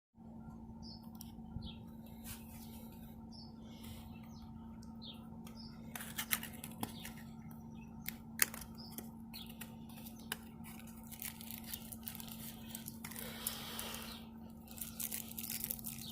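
Steady low electrical hum with small bird chirps in the first few seconds, then scattered sharp clicks and handling noises, growing busier and crinklier near the end.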